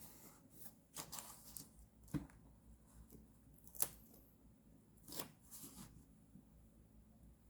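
Paper and stickers being handled for journal decorating: a few short, separate rustles and light taps, the sharpest about four seconds in.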